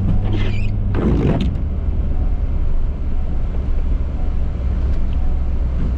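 Ford F-350's 6.7-litre Power Stroke V8 turbodiesel running steadily with a low hum, with two short noisy bursts in the first second and a half.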